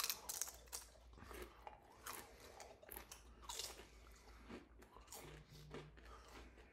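Sweet potato chips being bitten and chewed: a run of small, quick crunches, fairly quiet.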